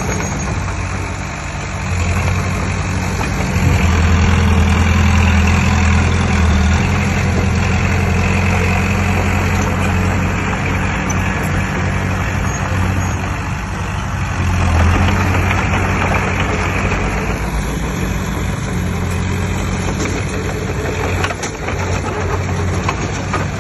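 Heavy diesel engine of earthmoving machinery running steadily, growing louder a few seconds in and rising and falling as the load changes.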